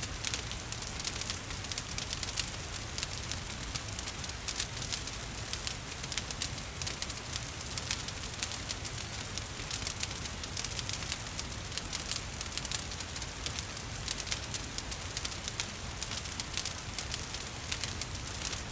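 Wood fire crackling with frequent sharp pops and snaps over a steady hiss of falling rain.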